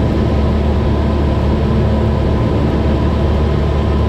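Cessna 172's engine and propeller droning steadily in flight, heard inside the cabin.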